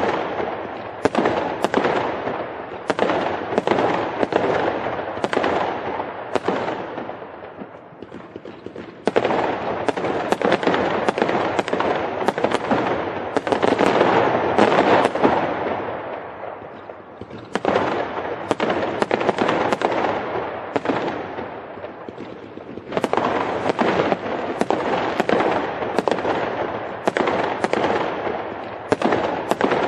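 Firecrackers and fireworks going off: a continuous dense crackling that swells and fades in waves, with sharp louder bangs every half second or so.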